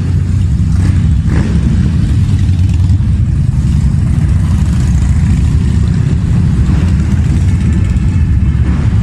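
A group of motorcycle engines running together, a loud steady rumble.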